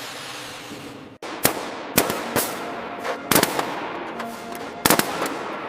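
A series of about six sharp knocks or strikes at irregular intervals, some in quick pairs. Before them a steady noise fades and cuts off suddenly about a second in.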